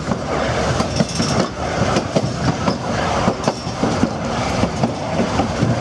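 Durango & Silverton narrow-gauge passenger train rolling along the track, its wheels rumbling and clattering with irregular sharp knocks over the rails.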